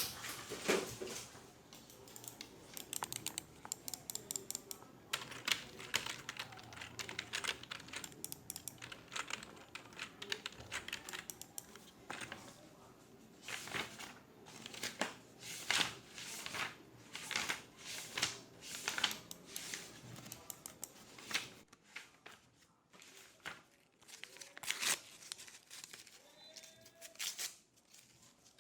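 Office keyboard typing: irregular runs of key clicks and clatter, dense at first and thinning to a few scattered clicks near the end.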